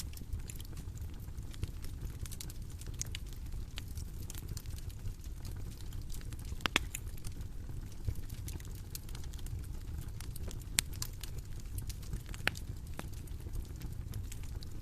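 Bonfire crackling: a steady low rumble of burning with scattered small snaps and a few sharper pops spread through.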